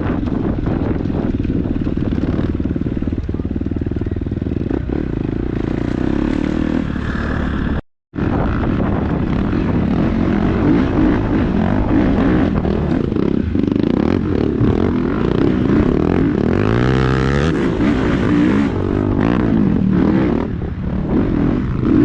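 KTM 250 dirt bike engine running under way on a trail, pitch moving up and down with the throttle and rising in a rev about three-quarters of the way through. The sound cuts out completely for a moment about a third of the way in.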